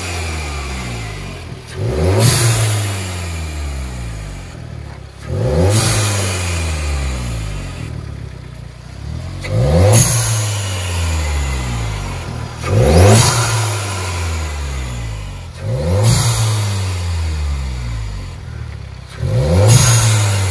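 Turbocharged 1.8 TSI four-cylinder petrol engine of a Skoda Octavia, remapped, blipped six times at a standstill, about every three to four seconds. Each rev rises quickly and falls back to idle, with a rush of air at the peak: the combined sound of its cold air intake and blow-off valve.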